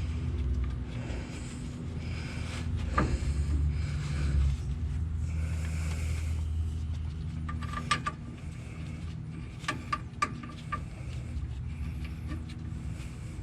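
Sharp metallic clinks of hand tools on the drive shaft's bolts and fittings, a few at a time with a short ring, over a steady low rumble.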